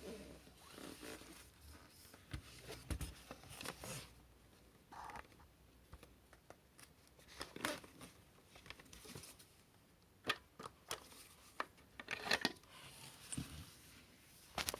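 Handling noises of a cordless stick vacuum's plastic body and attachments: scattered clicks, short scrapes and rustles, with the motor not running. The sharpest clicks come near the end.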